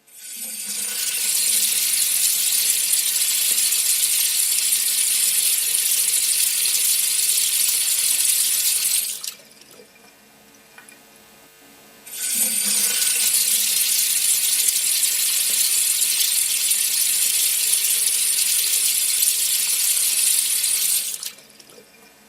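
Steady rushing, hiss-like water noise in two long stretches of about nine seconds each, with a short quiet gap between them; each stretch cuts off abruptly.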